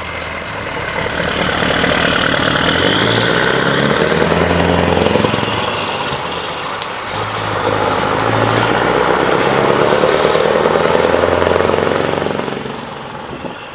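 Scania R500 V8 diesel truck pulling away and accelerating, its engine note rising in two pulls with a brief easing-off about halfway, then fading as it goes.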